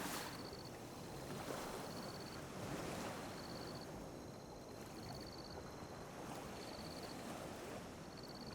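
Calm sea waves lapping on a beach, small washes of water swelling and falling back every couple of seconds. A faint high chirp repeats about every second and a half.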